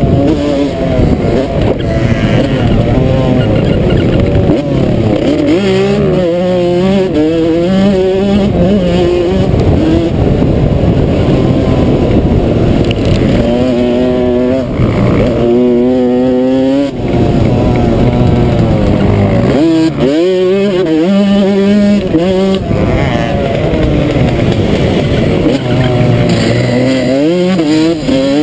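Motocross dirt bike engine revving hard, its pitch climbing and dropping again and again as it accelerates and shifts through the gears, over a steady rush of wind noise.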